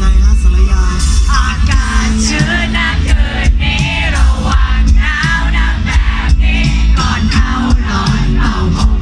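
Live Thai pop-rock band playing a song: a sung vocal line over heavy bass, drums, guitar and synthesizer, loud through a concert PA.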